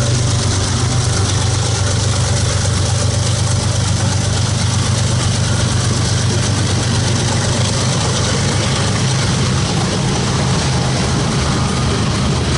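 Diesel locomotive engine idling, a steady low rumble.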